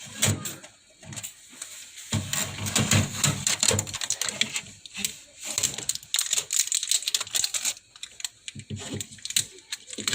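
Rapid, irregular clicks and taps with some duller low knocks among them.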